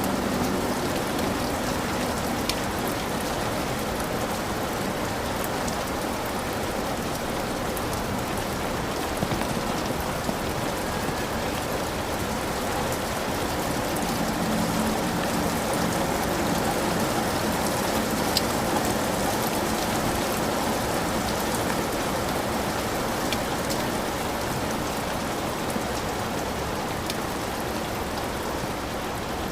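Heavy rain falling steadily on a hut roof, a dense even hiss with scattered sharp drop clicks.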